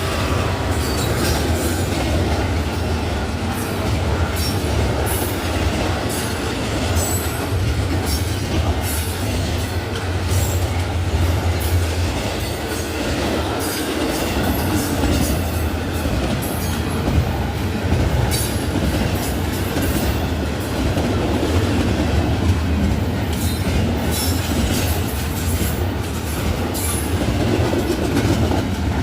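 Norfolk Southern intermodal freight train rolling past at close range: a steady heavy rumble of steel wheels on rail, with many irregular sharp clicks from the wheels running over the track.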